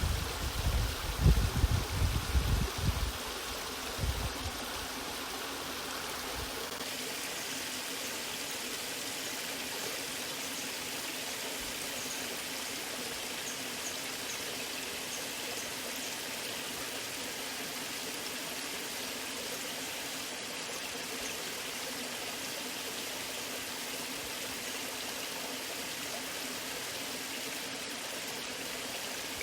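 Waterfall water rushing and splashing steadily. For the first three seconds or so, irregular low thumps sit under it, louder than the water. About seven seconds in, the low rumble drops away and the rush turns brighter.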